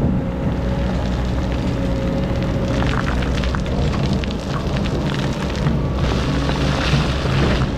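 Excavator engine running steadily under load while digging sand, with scattered clicks and knocks from the bucket and a crackling rush of sand near the end.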